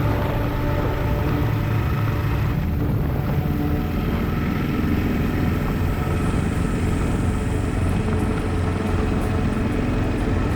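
Kawasaki KLR single-cylinder motorcycle engine running steadily under way, with a steady low engine tone throughout.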